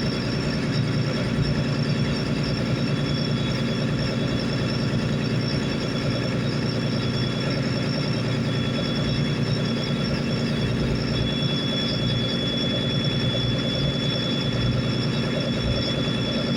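Boat's diesel engine running steadily, a low drone with a thin high whine over it.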